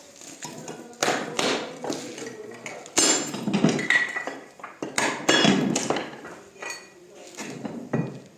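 Hard clinking knocks of rockface stone cladding pieces being struck or knocked against each other, in several clusters about two seconds apart, some with a short ring.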